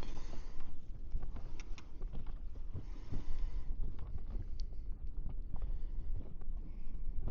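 Steady low rumble of wind and water around a small inflatable boat at anchor, with scattered light clicks and knocks.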